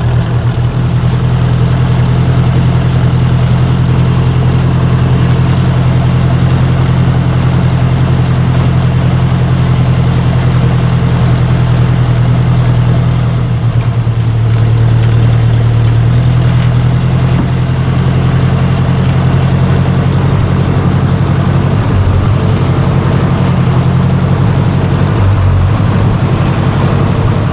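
1953 Ford Jubilee tractor's four-cylinder gasoline engine running steadily while the tractor pulls a wagon, with a brief dip in level about thirteen seconds in.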